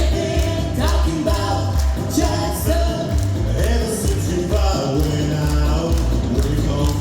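Live band music with a steady bass beat and a singing voice.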